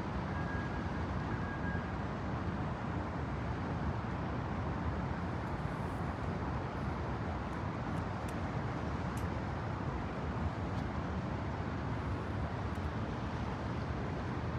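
Steady low rumble of outdoor urban background noise, like traffic and wind along a waterfront, with no distinct events.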